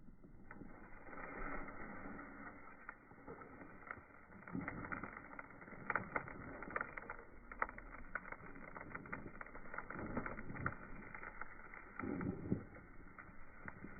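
Dry tumbleweed burning on a bonfire: many sharp crackles and pops over a steady rushing noise. The crackling comes in louder bursts about six seconds in and again near the end.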